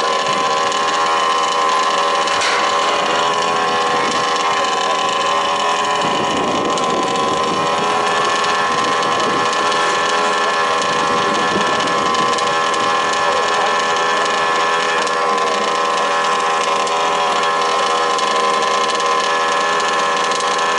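Small two-stroke petrol engines of 1/5-scale RC trucks running at a steady pitch, with a rougher low rumble mixed in from about six to twelve seconds in.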